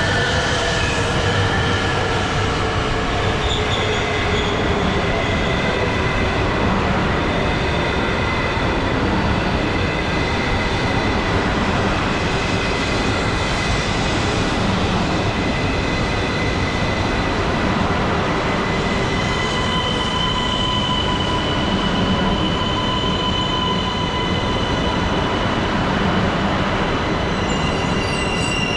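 Shinkansen train moving slowly through the station, a continuous loud running noise throughout. In the first few seconds its motor whine falls in pitch. Steady high-pitched wheel squeal rings over it, with another high squeal tone joining about two-thirds of the way in.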